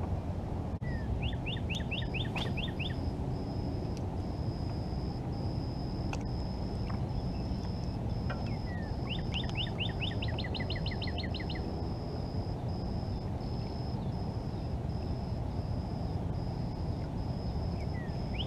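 A songbird singing three short phrases of quick repeated notes: about a second in, near the middle, and again at the end. Under them runs a steady high-pitched whine broken into short dashes, over a low outdoor background hum.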